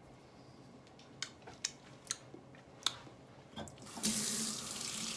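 Several light clicks and taps, then about four seconds in water starts running steadily.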